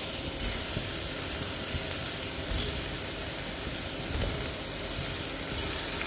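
Beef trotters sizzling steadily in hot oil with fried onion and ginger-garlic masala in an open pressure cooker, being turned with a wooden spoon.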